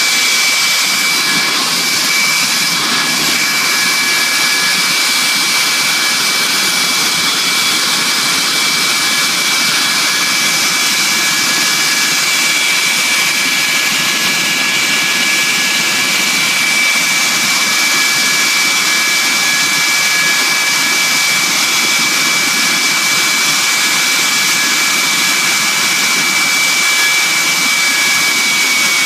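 Ilyushin Il-86 jet engine running steadily, a loud rush with a high whine held on one pitch; the whine drops a little right at the end.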